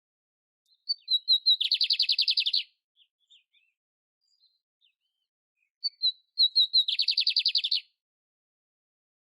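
A canary singing two short phrases, each a few quick high chirps leading into a rapid, even trill lasting about a second, with silent pauses between the phrases.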